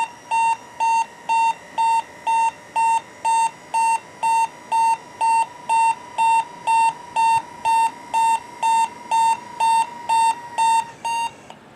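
Warning beeper on a fire engine's Zyco electric ladder rack sounding while the rack powers down: an even, high-pitched beep about twice a second, which stops about a second before the end.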